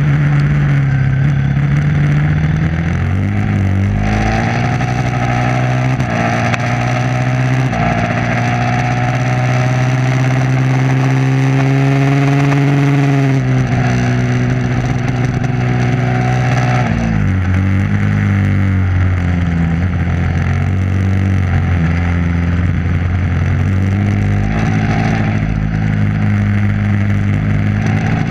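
Motorcycle engine running hard on track. Its pitch climbs slowly for several seconds, then drops in two clear steps about halfway through and again a few seconds later, with steady rushing noise underneath.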